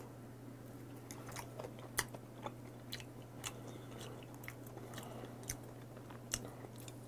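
A person chewing soft raw sea urchin roe close to a lapel microphone: scattered faint wet mouth clicks and smacks, over a steady low hum.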